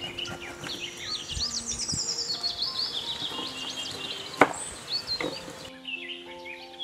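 Birds chirping over a few sharp cuts of a knife through red cabbage onto a wooden cutting board, the loudest about two-thirds of the way in. Soft background music with held notes runs underneath.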